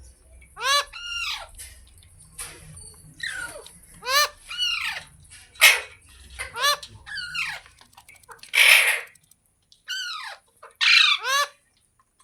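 Pet green parrot squawking: a rapid series of about a dozen loud, harsh calls, most dropping in pitch, with a longer rasping screech partway through.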